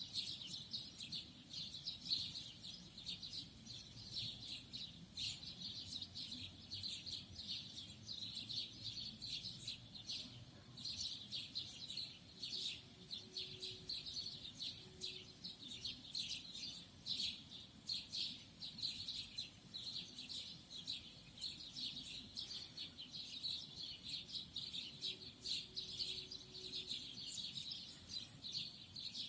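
Songbirds singing and chirping: a steady stream of quick, high chirps, overlapping one after another.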